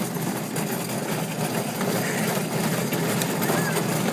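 Alfa Romeo pedal car's wheels rolling over the ground: a steady rumble.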